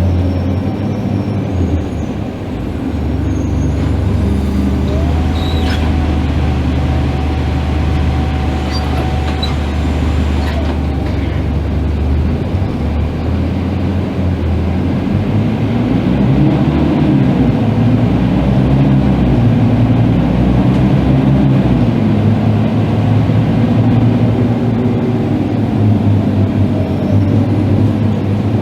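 Diesel engine of a 15-metre Scania K310IB bus running. It holds a steady low hum at first, then its pitch rises and falls repeatedly in the second half as the bus picks up speed and eases off.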